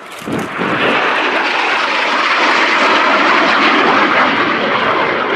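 Jet engine noise from a Lockheed Martin F-35B Lightning II's Pratt & Whitney F135 turbofan as the jet flies its display. It swells sharply within the first second, then holds loud and steady.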